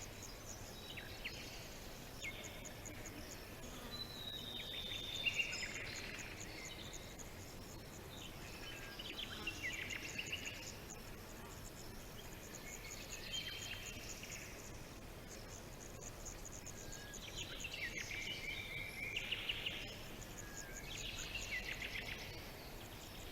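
Birds singing short chirping phrases every few seconds over a steady, fast-pulsing insect chorus.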